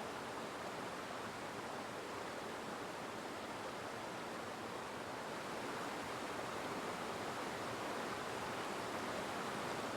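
Steady rushing noise with no distinct events, swelling very slightly near the end: a constant background hiss.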